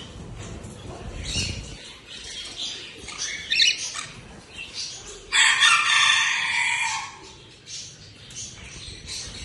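Pet lovebirds chirping in short high calls, with a loud flurry of wing flapping a little after halfway that lasts under two seconds.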